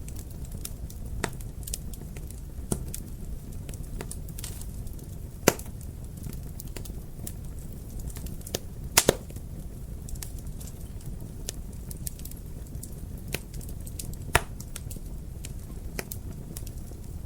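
Wood fire crackling in a fireplace: a steady low rumble with frequent sharp pops and snaps. A few pops stand out louder, one of them a quick double pop about halfway through.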